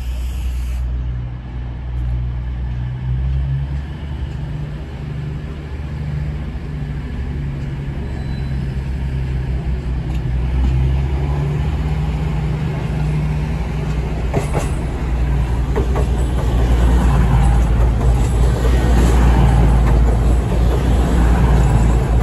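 Passenger train running with a steady low drone that grows louder as it comes alongside the platform.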